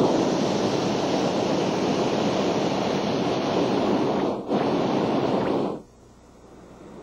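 Hot air balloon's propane burner firing with a loud, steady roar, breaking off for a moment about four and a half seconds in, then shutting off about a second later.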